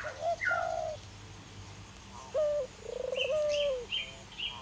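Birds calling: a few low, level cooing notes around the middle, and a run of short high chirps near the end.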